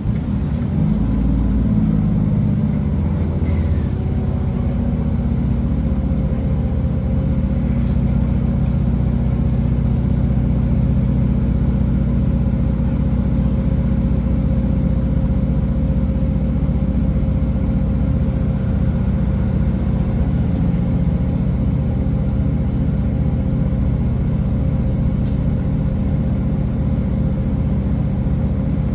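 Class 165 diesel multiple unit's underfloor diesel engines working under power, heard from inside the carriage: the engine note climbs over the first couple of seconds, then holds a steady drone with a faint steady whine.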